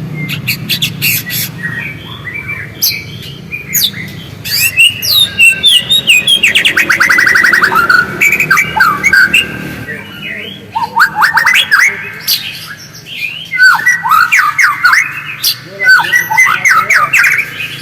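White-rumped shama (murai batu) singing and chattering. It gives a rapid run of varied whistled notes and sharp clicks, with a fast falling trill of many notes about six seconds in.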